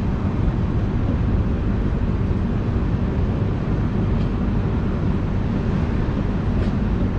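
Passenger train running, heard from aboard as it pulls into its terminal station: a steady low rumble with no distinct wheel clicks.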